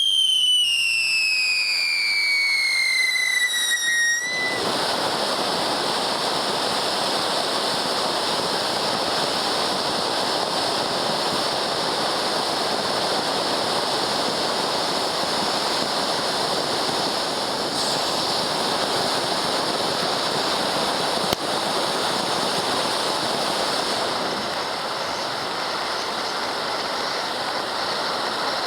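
Tiger's Roar XL firework fountain burning: a loud whistle falls steadily in pitch for about four seconds, then gives way to a dense, steady crackling hiss that eases slightly near the end.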